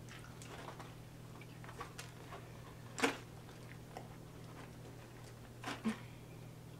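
Quiet close-up eating sounds of a person eating fried chicken: faint wet mouth clicks and chewing, with a sharper click about three seconds in and two more near the end, over a low steady hum.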